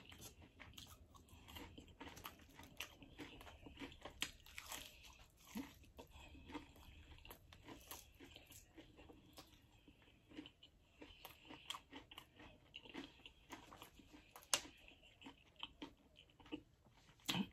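A person chewing and biting crispy deep-fried chicken wings and fries: faint, irregular crunches and mouth sounds, with one sharper crunch about fourteen and a half seconds in.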